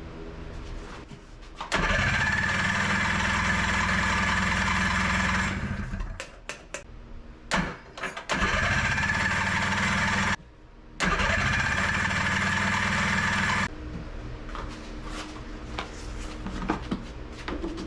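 Rebuilt Honda Odyssey FL250 two-stroke engine being cranked with the choke on, three times, each try a few seconds long and cut off abruptly. The engine turns over but does not catch.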